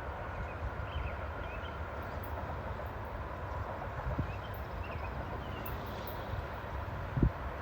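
Distant diesel locomotive running as a low, steady rumble, with a few bird chirps. Two short thumps on the microphone, one about four seconds in and a louder one near the end.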